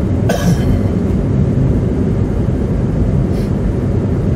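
Steady low tyre and road rumble heard inside a car driving over slush and ice, with a brief hiss about half a second in.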